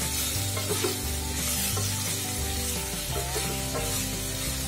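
Potato cubes, tomato and green chilli frying in ghee in a steel kadhai, sizzling steadily as a wooden spatula stirs them, over soft background music.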